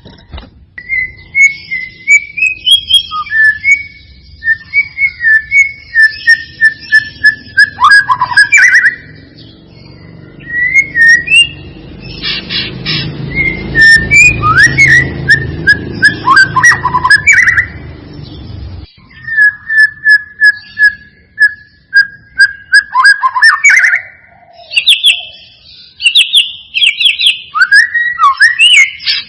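White-rumped shama singing: phrases of clear, whistled notes, with runs of quick repeated notes and sweeping slurs, broken by short pauses. A low rumbling noise lies underneath through the middle and stops suddenly about two-thirds of the way in.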